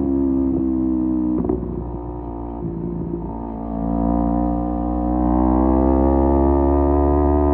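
Kawasaki Z250 parallel-twin engine through an aftermarket SeaPro muffler, running under way. It runs steadily, drops to a lower, quieter note about a second and a half in, then builds back up from about four seconds in and holds steady.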